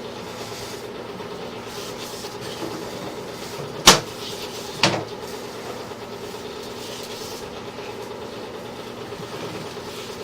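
Steady mechanical hum from sewer inspection camera equipment, with two sharp knocks about a second apart midway.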